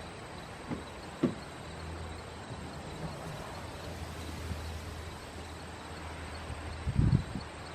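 A few light knocks and, near the end, a heavier thump, over a low steady hum.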